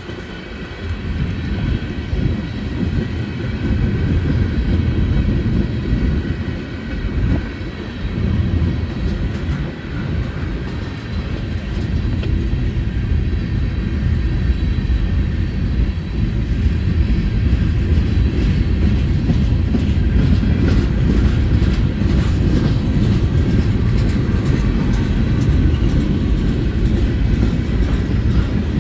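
Cars of a Norfolk Southern mixed-freight manifest train rolling past: a steady, loud low rumble of steel wheels on rail, with faint rail clicks in the second half.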